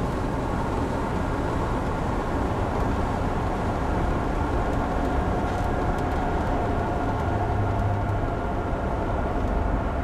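1984 VW Vanagon with a 2276 cc flat-four on dual carburettors, engine and road noise steady while driving, with a low rumble swelling for about a second near the end.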